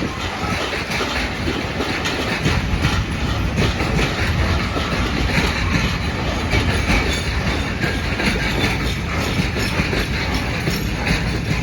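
Train running past, its wheels clattering over the rail joints in a steady stream.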